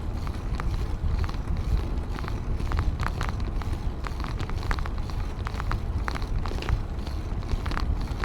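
Wind buffeting the microphone of a camera riding along on a moving bicycle, a steady low rumble. Irregular light clicks and rattles sound over it.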